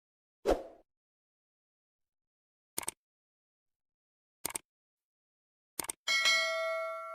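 A short thump, then three quick double clicks, then a bright bell-like ding near the end that rings on and fades out.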